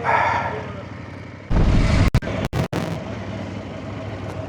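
Off-road trail bike engine idling steadily. About one and a half seconds in, a loud rush of noise lasts roughly a second and cuts out sharply a few times.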